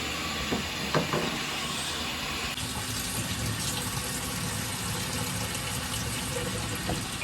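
Carpet-cleaning equipment running with a steady rushing hiss of liquid being sprayed. A couple of knocks come about a second in, and the hiss turns brighter a little over two seconds in.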